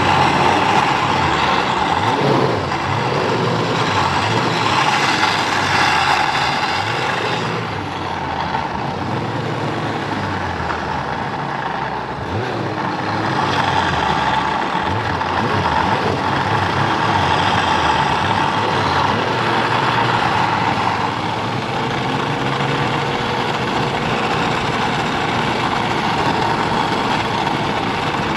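Snowmobile engine running and changing speed, a continuous mechanical drone whose pitch wanders up and down.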